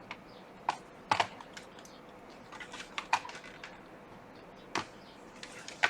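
Scattered light plastic clicks and taps from a laptop's case being handled and opened, irregular and sparse, with a louder click near the end.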